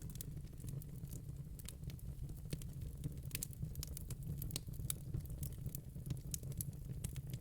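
Fire crackling: irregular sharp snaps and pops, several a second, over a low steady rumble.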